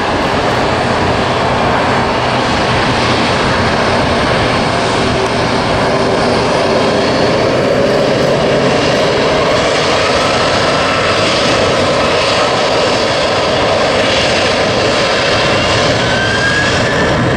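Jet airliner engines running loud and steady, with a thin whine rising in pitch near the end.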